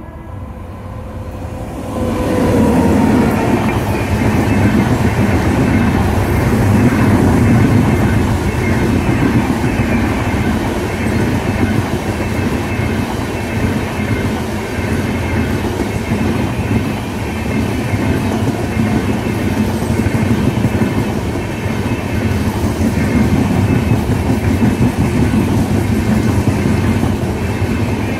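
Shatabdi Express passenger train passing close at speed: the sound swells as the electric locomotive goes by about two seconds in, with a brief falling tone, then settles into a loud, steady rumble of coach wheels on the rails.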